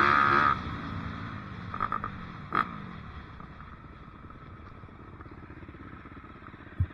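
Dirt bike engine running loud at high revs, then the throttle is let off about half a second in and the engine note falls and dies away to a quieter steady running sound. There is a single sharp click about two and a half seconds in and a short low thump near the end.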